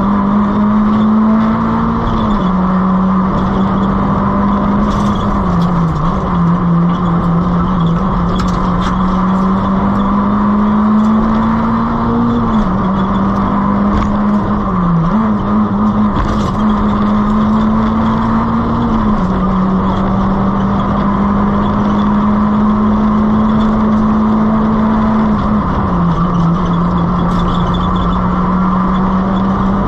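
Nissan Micra K11 rally car's 1.3-litre four-cylinder engine running hard at high revs. Its pitch climbs slowly and drops sharply several times at gear changes. A few sharp ticks come through over the road noise.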